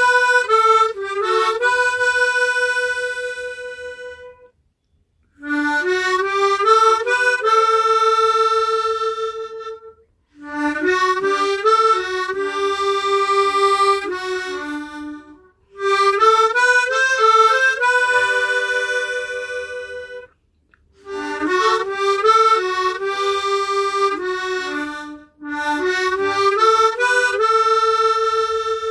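Hohner Echo Harp tremolo harmonica playing a solo melody in phrases of about five seconds, each ending on a held note, with brief pauses between them.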